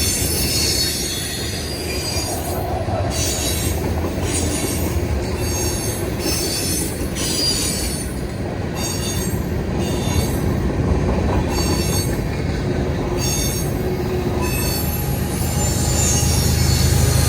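Freight train cars rolling past: a steady low rumble with high-pitched wheel squeals that come and go in short stretches. The rumble grows louder near the end.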